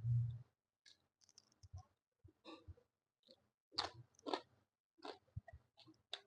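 Close-up chewing and wet mouth smacks of someone eating rice and paneer curry, with scattered small clicks and the two strongest smacks a little before the end. A short low thump right at the start is the loudest moment.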